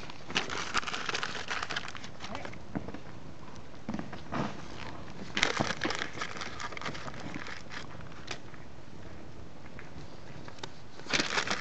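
Bonfire of paper and wood crackling, with irregular clusters of sharp pops and crinkling about a second in, around the middle and again at the end, and single pops in between.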